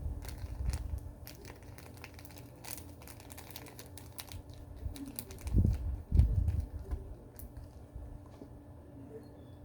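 Handling noise from plastic kit parts: quick light clicks and crinkling, with two low thumps a little past halfway through.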